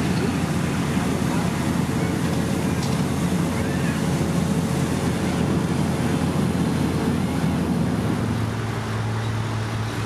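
Diesel engines of heavy road-paving machinery running steadily, the engine hum dropping to a lower, steadier note a little after eight seconds in.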